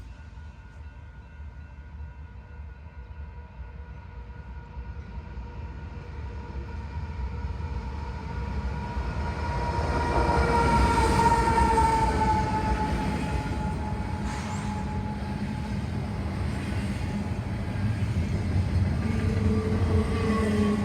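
A train going by: a low rumble with a set of steady high tones that swells to its loudest about ten to twelve seconds in, the tones dropping slightly in pitch as it passes.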